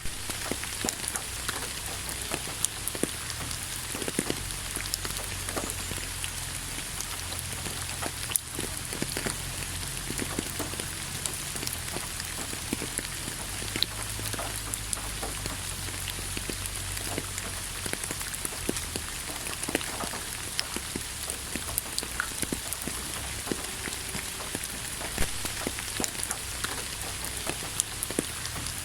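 Steady rain falling, with many separate drops ticking sharply on a surface over a constant hiss and a low steady rumble underneath.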